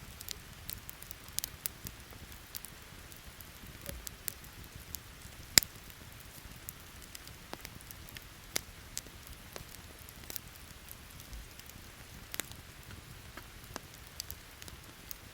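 Wood campfire crackling with scattered sharp pops, one loudest pop about five and a half seconds in, over a steady hiss of falling rain.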